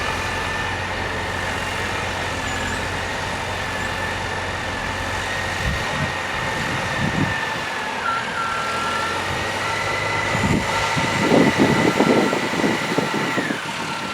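Heavy machinery engine running steadily under a high thin whine. About eight seconds in the whine drops in pitch and breaks up, and the engine gets louder and busier near the end.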